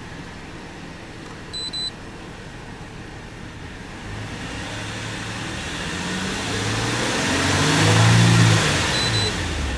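Nissan Elgrand Rider S engine and exhaust idling, then revved up gradually over a few seconds and let back down near the end. Short high electronic beeps sound briefly about a second and a half in and again near the end.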